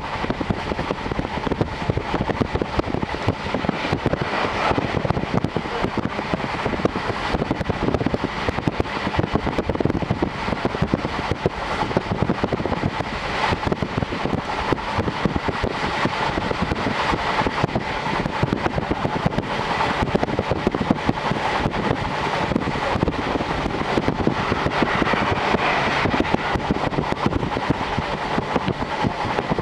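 JR Hokkaido Series 711 electric train running at speed, heard from inside the carriage through an open window: steady wheel-on-rail rumble and rushing air.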